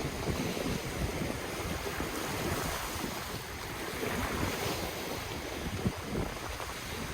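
Ocean surf washing continuously on the shore, with wind buffeting the microphone in low gusts; the hiss of the wash swells about halfway through.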